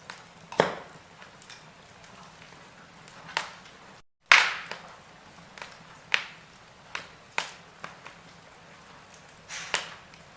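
Wood fire in a fireplace crackling: irregular sharp pops and snaps over a faint steady hiss, the loudest about half a second in and just after four seconds. The sound cuts out completely for a moment just before four seconds.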